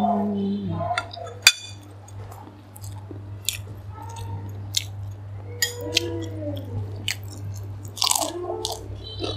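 Close-up chewing and biting of a meal of boiled prawns, rice and fresh lettuce, with many short crisp crunches and wet mouth clicks, over a steady low hum.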